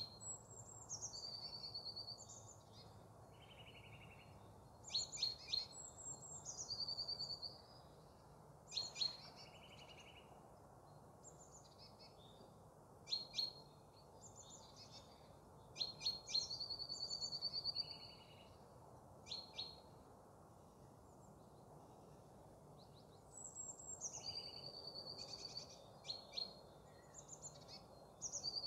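Small songbird calling in repeated bouts every few seconds: a few sharp high notes, a falling whistle and a short high trill each time, faint over a steady low background hum.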